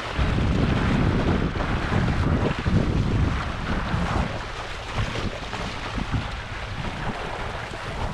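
Wind buffeting the microphone in a steady low rumble, over the wash of water.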